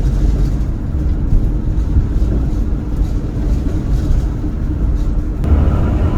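Steady drone of a van's engine and road noise heard from inside the cab while driving. It grows louder and brighter about five and a half seconds in.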